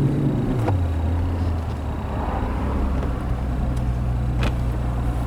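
Mercedes SL65 AMG's twin-turbo V12 heard from inside the cabin, its note dropping about half a second in as the revs fall, then running on as a steady low drone.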